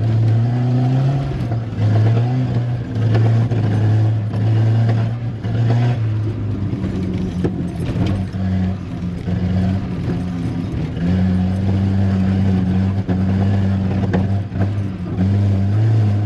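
Volvo 740 Turbo's turbocharged four-cylinder engine driven hard under load, its steady note dipping briefly several times as the throttle is lifted or gears change.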